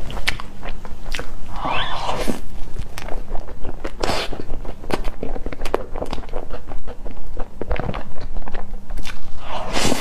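Close-miked chewing and biting of a soft, cream-filled layered crepe cake: a steady run of wet, sticky mouth clicks and smacks, with two longer, hissy mouth sounds about two seconds in and near the end.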